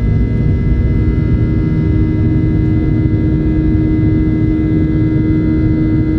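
Boeing 737-800's CFM56-7B jet engines heard inside the cabin during the climb: a loud, steady rumbling drone with a constant low hum and a fainter high whine.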